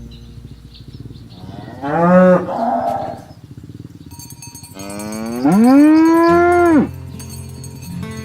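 Cows mooing: a short call about two seconds in, then a longer, louder moo that rises in pitch, holds, and drops away near the end.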